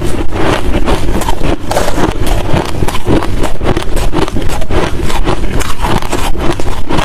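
Hard crushed ice and shaved-ice chunks being bitten and chewed close to the microphone: dense, continuous crunching and cracking.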